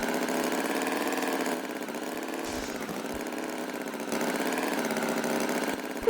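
An engine idling steadily, a little quieter for a couple of seconds in the middle.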